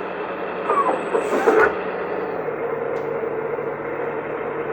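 Kabolite K970 sound module playing a recorded excavator diesel engine running steadily, with track-travel clanking as the RC excavator's tracks are driven. Two short, sharper clanks come about a second apart early on.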